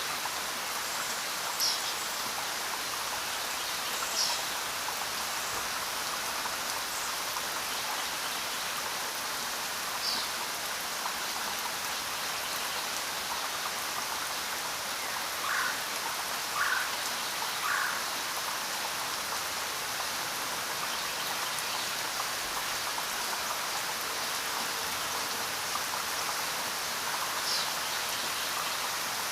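Steady rain falling in a continuous, even hiss, with a few brief high chirps scattered through it, three of them close together in the middle.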